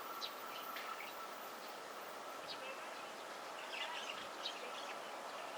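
Faint birds chirping in short scattered calls, a small cluster about two thirds of the way through, over steady faint outdoor background noise with a thin high hum.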